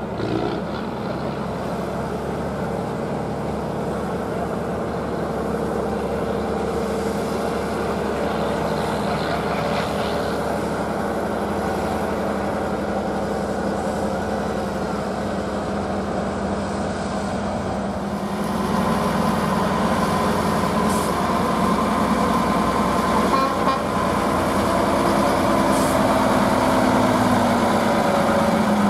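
Truck engine running steadily, growing louder about two-thirds of the way through.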